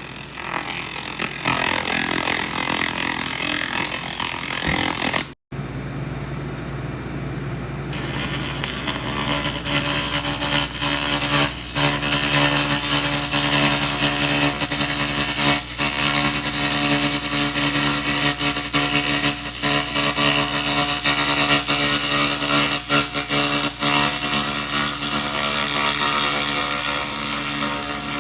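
Handheld 2000 W fiber-laser rust remover running on rusty metal: a steady buzzing hiss over a steady hum. It drops out abruptly for a moment about five seconds in, then carries on.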